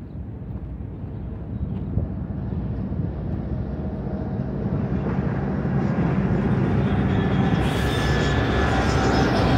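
Approaching freight train hauled by two GE diesel locomotives, a BNSF ES44C4 leading a Dash 9-44CW, their engine rumble growing steadily louder. From about eight seconds in, the hiss and rattle of wheels on rail join as the locomotives draw near.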